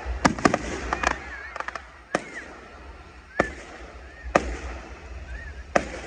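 Fireworks display: aerial shells bursting in a series of sharp bangs. Several come close together in the first two seconds, then single bangs follow about a second or more apart.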